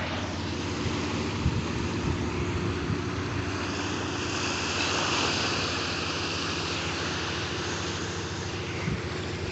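Steady drone of a small propeller airplane's engine passing overhead, over a wash of surf and wind.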